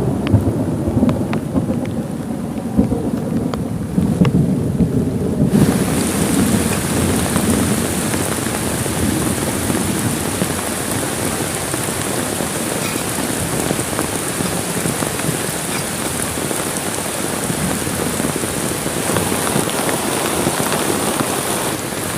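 Heavy rain falling, with a low rumble of thunder through the first few seconds. About five seconds in the sound switches abruptly to a steady, bright hiss of downpour that carries on unchanged.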